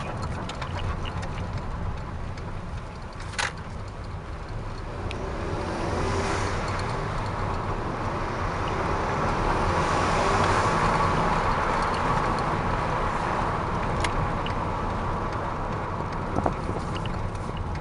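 Volkswagen GTI MkV's 2.0T FSI turbocharged four-cylinder, fitted with a Neuspeed P-Flo intake, running on a drive with steady engine and road noise. The noise swells briefly about six seconds in and more strongly around ten seconds in. A couple of sharp clicks sound along the way.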